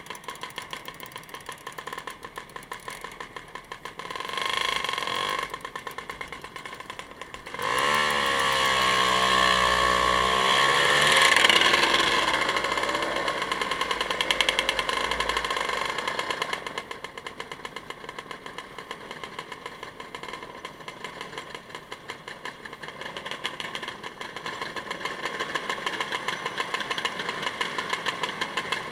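Motor vehicle engine running with a fast, even pulse. About eight seconds in, a louder engine comes up with its pitch dipping and then climbing, and it stays loud for several seconds before falling back to the steadier running sound.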